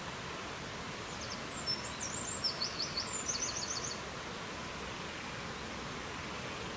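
Steady rushing wind noise, with a songbird singing one short phrase of quick, high-pitched repeated notes about a second and a half in, lasting roughly two seconds.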